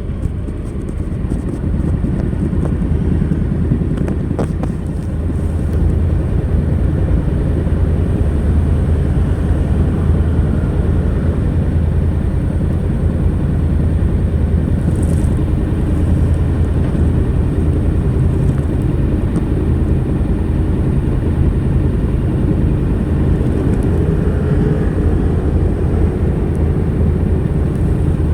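Honda NC700X's 670 cc parallel-twin engine running steadily through its stock exhaust, a little quieter for the first few seconds and then level.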